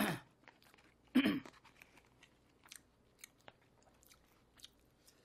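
Close-miked chewing of a mouthful of food eaten with a spoon, with two louder wet mouth sounds at the start and about a second in, then soft scattered mouth clicks.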